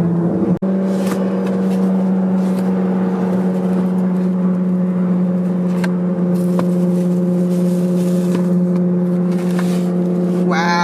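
Lamborghini Gallardo's V10 engine droning steadily at cruise, heard inside the cabin, with a short break about half a second in. Faint rustles and ticks sit on top of the drone.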